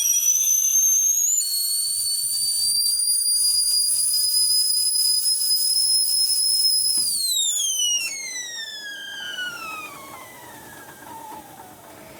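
Haus Roland stovetop whistling kettle whistling at the boil: a loud, shrill whistle with a hiss of steam that jumps in pitch about a second in and holds. From about seven seconds in it glides steadily down in pitch and fades away.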